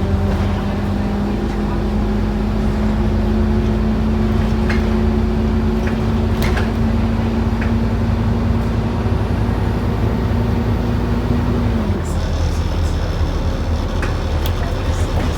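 Scania N230UD OmniCity bus's diesel engine pulling steadily, heard from inside the bus. Its note rises slowly and then drops suddenly near the end as the gearbox shifts up, over the rattles of the bus body.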